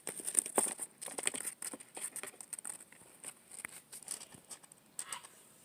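Injured wild bird scrabbling and flapping against a hard surface: a rapid, irregular run of scratchy taps, busiest in the first couple of seconds, thinning out, then another flurry near the end. It is the sound of the bird thrashing about in panic.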